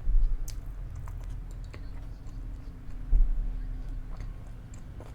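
Close-miked chewing, with scattered small wet mouth clicks, and two low thumps, one right at the start and one about three seconds in.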